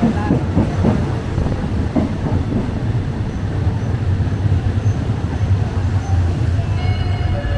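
Steady low rumble of a passenger train, heard from inside a third-class carriage.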